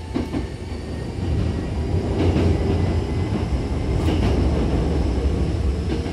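Hankyu 6000 series commuter train running, heard from inside the carriage: a steady low rumble that grows louder about a second in, with a couple of brief knocks from the wheels.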